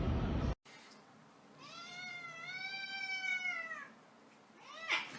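A domestic cat gives one long, drawn-out meow that rises slightly and then falls away at the end. Before it, a steady rushing noise cuts off abruptly, and a short sharp falling sound comes near the end.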